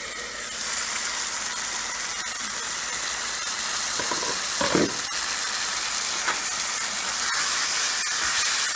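Chicken pieces sizzling in oil and masala in an uncovered pan, a steady sizzle that swells about half a second in, with one short scrape, like a spatula on the pan, about halfway through.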